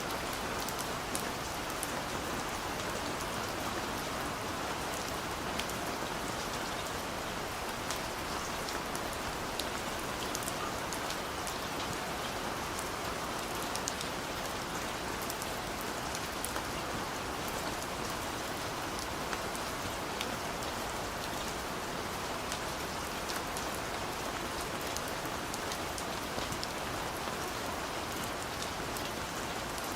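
Steady rain falling, an even patter with many small distinct drop ticks on top.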